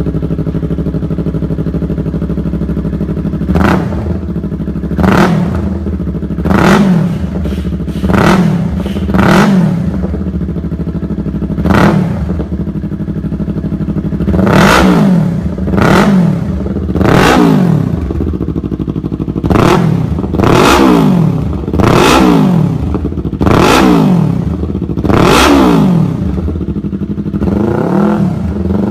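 2022 Yamaha R3's parallel-twin engine idling through an aftermarket exhaust, its throttle blipped more than a dozen times. Each rev rises quickly and falls straight back to idle.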